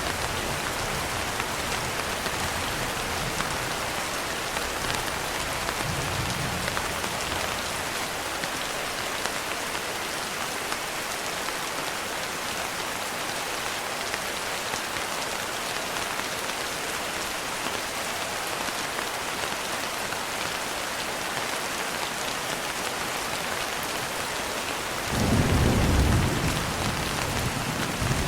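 Steady rain falling, an even hiss. About 25 seconds in, a low rumble of thunder swells up and dies away after about two seconds.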